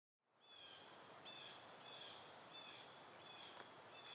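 Faint bird chirping: a short, high call repeated roughly every half second over a soft hiss, fading in at the start.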